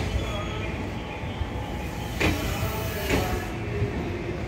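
JR 12 series blue passenger coaches rolling past a station platform as the out-of-service train pulls out: a steady low rumble with two sharp clacks about a second apart.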